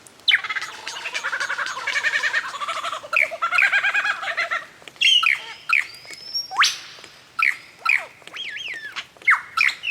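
Lyrebird song. For the first few seconds it is a dense, rapid run of chattering notes, then a string of separate loud whistled notes and quick sweeping calls.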